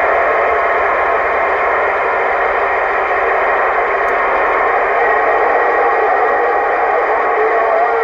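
Two-way radio receiver hissing steadily through its speaker, the static narrowed to a midrange band, with a weak, distant station's voice faintly rising out of the noise from about halfway through.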